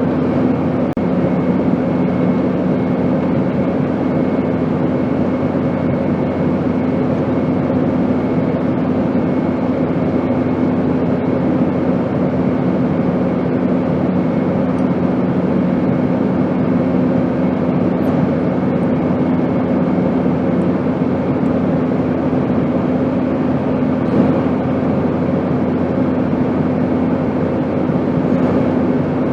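Steady drone of an airplane in flight: an even rushing noise with a constant low hum. One of the hum notes fades out about two-thirds of the way through.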